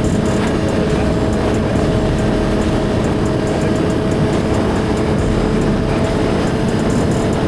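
Suzuki GSX-R1000's inline-four engine running at a steady speed while riding, its steady engine note mixed with rushing wind and road noise.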